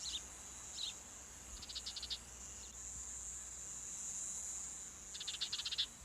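Outdoor insect chorus: a steady high-pitched chirring of crickets, with a few short chirps and two rapid trills of clicks, one about a second and a half in and one near the end.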